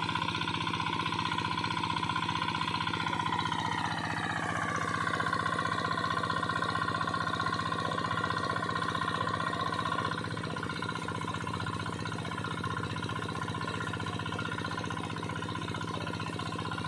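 Small engine-driven suction pump running steadily, with a high whine over the engine note that slides down in pitch about four seconds in. The sound drops a little in loudness about ten seconds in.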